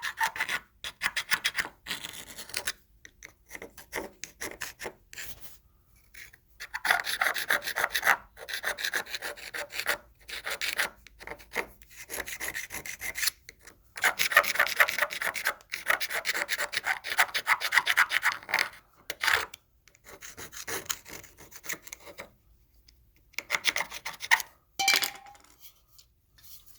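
A brush scrubbing a Mikuni carburetor body: rapid, scratchy rubbing in spells of a few seconds, with short pauses between them.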